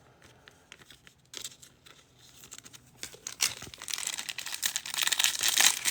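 A trading-card pack's wrapper being torn open and crinkled by hand. It is faint with a few small clicks at first, then a dense crinkling that builds from about halfway through.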